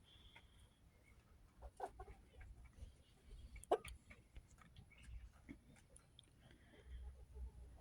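Backyard chickens clucking softly and intermittently, with scattered faint clicks and one sharper click about three and a half seconds in.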